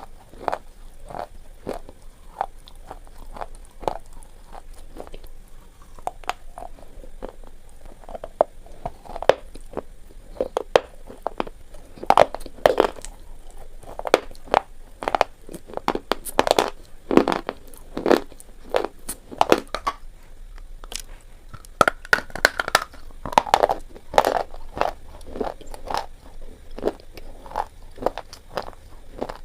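Slate pencils being bitten and chewed close to the microphone: a long run of sharp, dry crunches at an uneven pace.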